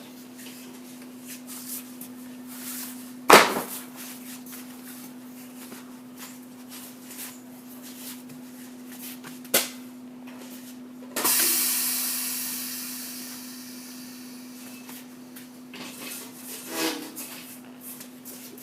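Truck tire sidewall remover machine running with a steady hum while working a steel radial truck tire. A sharp bang comes about three seconds in and a click later on. A sudden loud hiss at about eleven seconds fades away over a few seconds, and there is some clatter near the end.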